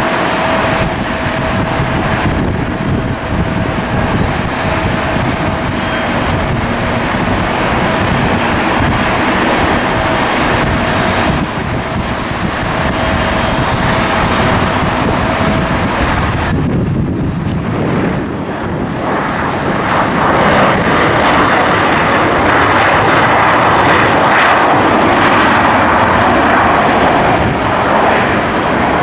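Jet engines of an Airbus A320 airliner, a steady whine and rush that grows louder about two-thirds of the way through, with wind buffeting the microphone.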